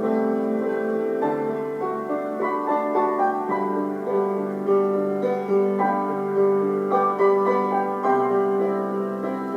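Gentle background piano music, with sustained notes and soft chords.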